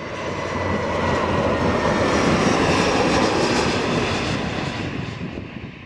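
Airliner flying past, its engine noise building to a peak about two to three seconds in, then fading away.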